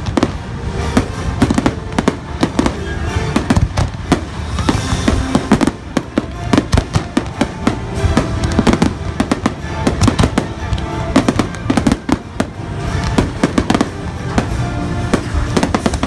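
Fireworks bursting in quick, irregular succession: many sharp bangs and crackles, over the show's orchestral score playing through loudspeakers.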